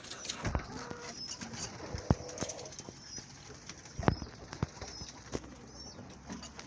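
Domestic pigeons cooing in a loft, with a few sharp taps and knocks scattered through.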